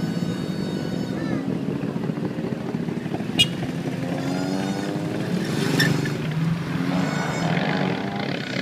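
A steady engine hum with people's voices over it, and a single sharp click about three and a half seconds in.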